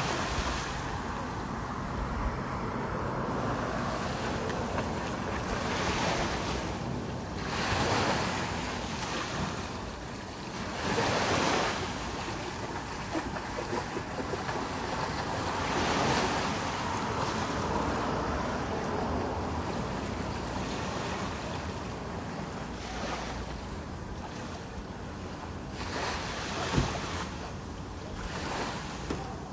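Ocean surf washing onto a beach: broad swells of wave noise come in every few seconds, with wind buffeting the microphone. There is a single sharp knock near the end.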